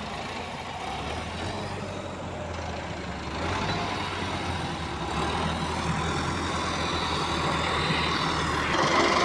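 Tractor engine running steadily with a low hum, growing louder about three and a half seconds in and again near the end.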